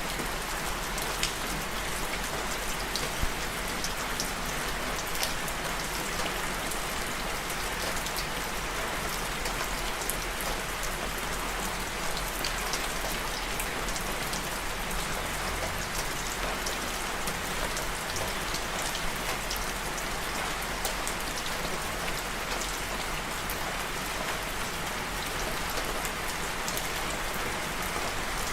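Steady rain falling on a surface, a dense even hiss with many single drop ticks scattered through it.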